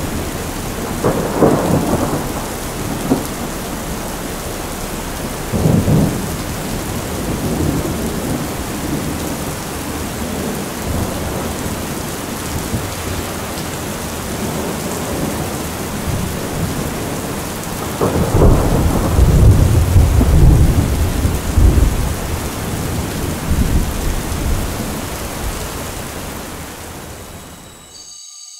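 Thunderstorm sound effect: a steady hiss of heavy rain with thunder rumbling, briefly about a second in and again around six seconds, then longer and loudest from about 18 to 22 seconds. It fades out near the end.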